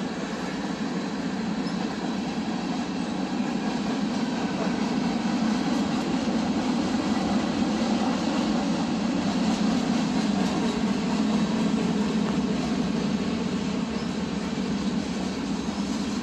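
CPKC freight train rolling past: a steady noise of wheels on rail that grows slightly louder in the middle.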